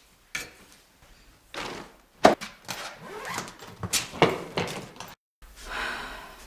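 A run of knocks and thumps, like a door and objects being handled; the sharpest knock comes about two seconds in, and a short rush of noise follows near the end.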